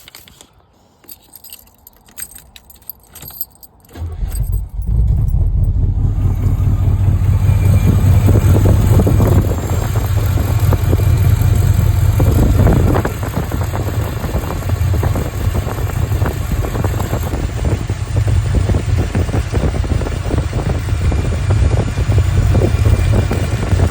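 A few light clicks and rattles, then about four seconds in the 1983 Chevrolet Caprice's small-block V8 starts and runs steadily. The owner suspects it is leaking exhaust at a cast-iron manifold that appears to have no gasket.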